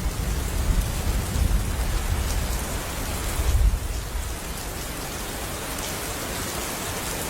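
Steady heavy rain falling, with deep low rumbles through the first half that ease off after about four seconds.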